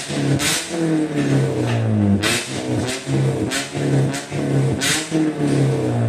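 Toyota Yaris four-cylinder engine breathing through a full-system NDK aftermarket exhaust, revved in repeated short throttle blips about once a second, each a sharp rasp at the peak followed by the pitch falling back toward idle.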